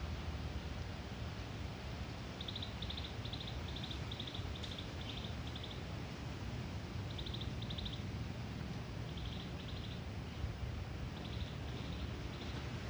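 A small bird calling in short, high, buzzy chirps: a run of about eight at roughly three a second, then a few groups of two or three. Under it is a steady low rumble of background noise.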